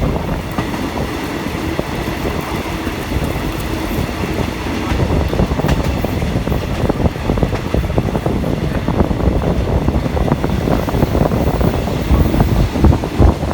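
Passenger train in motion, heard on board: steady rumbling of the carriage with wheels clattering over the rail joints.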